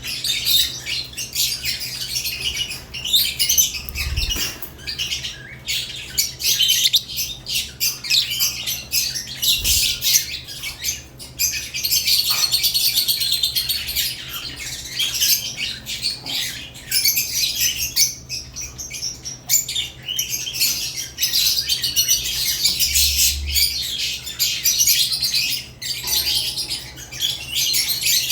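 Several caged lovebirds chirping and squawking continuously in rapid, overlapping high calls, with a few soft low thumps now and then.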